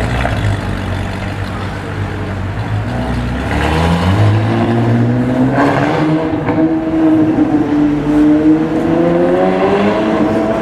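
Ferrari 458's 4.5-litre V8 with a modified exhaust, running at a low steady idle. About four seconds in its note steps up and then climbs slowly and smoothly as the car moves off.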